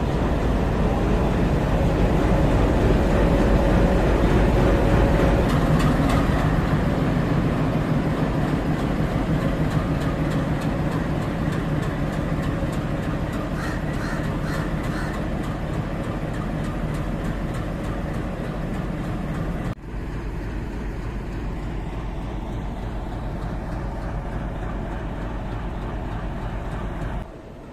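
Indian Railways diesel locomotive running with a steady, deep, throbbing drone, slowly fading as it moves off along the line. Crows caw a few times around the middle.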